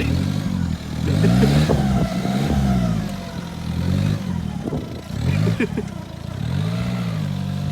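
Car engine revved up and down several times, with a loud, open exhaust note that sounds as if there is no exhaust: the owner suspects the exhaust has fallen off.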